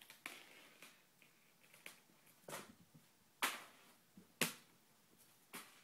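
A cat playing with a Da Bird feather wand toy: scattered sharp taps and thumps as it leaps and lands, with four louder ones in the second half.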